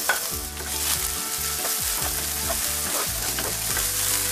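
Chopped garlic and shallots sizzling in hot oil with fried dried tiny shrimp in a wok, steadily hissing. A wooden spatula stirs them through, scraping lightly against the pan.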